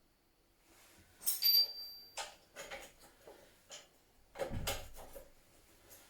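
Workshop handling noises of metal parts and tools: a sharp clink with a brief high ring about a second in, a few lighter knocks, then a heavier thump about four and a half seconds in.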